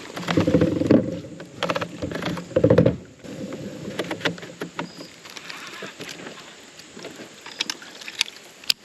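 Small electric trolling motor running in three short bursts with a steady whirring hum, its battery nearly flat so the prop is barely turning. Light clicks and knocks of handling in the boat are heard between the bursts.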